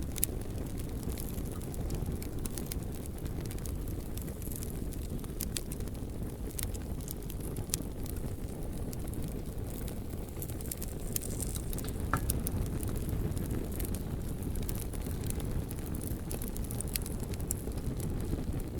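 Campfire burning, with frequent sharp crackles and pops at irregular intervals over a steady low rumble.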